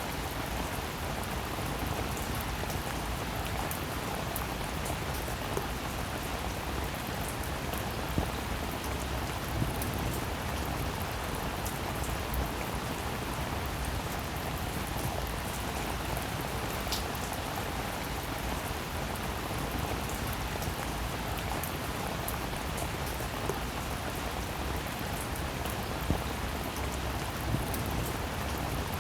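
Steady rainfall: an even hiss of rain with scattered sharper drop taps now and then.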